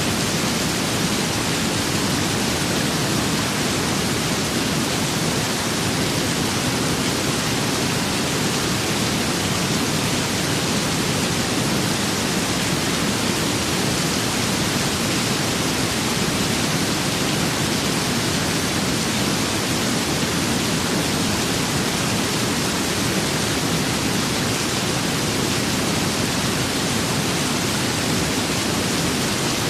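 Steady rain-and-wind ambience: an even, unchanging hiss with no distinct drops, gusts or thunder.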